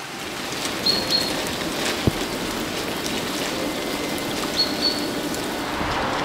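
Steady rain falling in a wet conifer forest, an even patter throughout. A bird gives two short high calls, about a second in and again near five seconds, and there is a single sharp tick at about two seconds.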